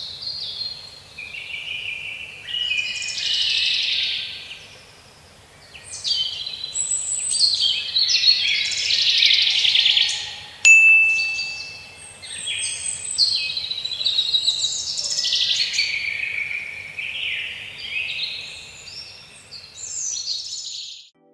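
Several birds chirping and singing at once in a continuous, overlapping chorus of quick high phrases. A sharp click with a short ringing tone comes about ten seconds in. The chorus cuts off abruptly near the end.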